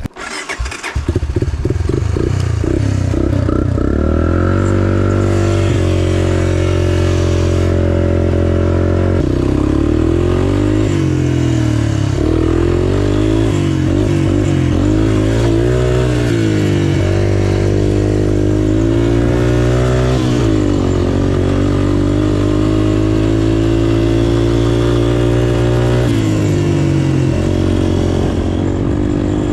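Off-road machine's four-stroke single-cylinder engine, heard up close, starting about a second in and then running hard, its revs rising and falling as it is ridden.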